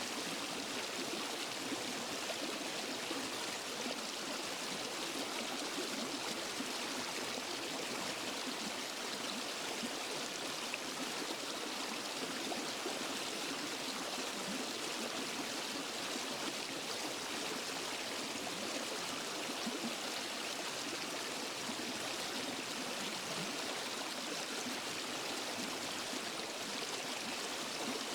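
Waterfall and stream water rushing and splashing over rocks: a steady, even rush with no breaks.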